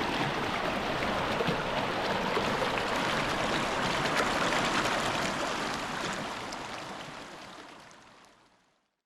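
Mountain stream flowing, a steady wash of running water that fades out over the last few seconds.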